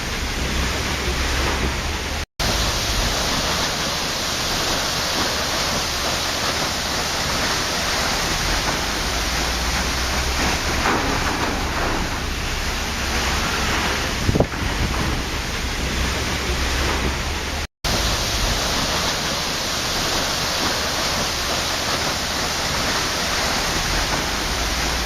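Waterfall: a steady, dense rush of falling water with no other sounds. It cuts out to silence twice for a split second.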